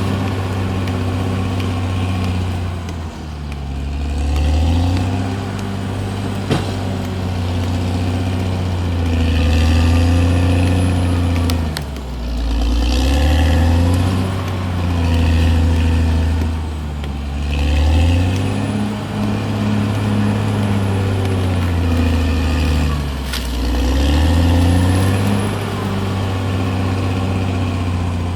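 Caterpillar D6R bulldozer's diesel engine working under load, its pitch sagging and rising again in repeated cycles every few seconds, with a single sharp click about six and a half seconds in.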